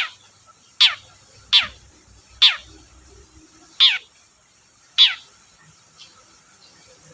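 Long-tailed shrike (cendet) calling: a series of short calls, each sweeping quickly down in pitch, six loud ones about a second apart and a fainter one near the end.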